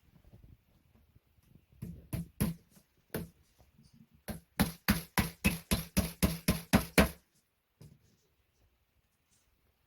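Sharp knocks: a few scattered ones, then a quick, even run of about ten at roughly four to five a second, stopping suddenly.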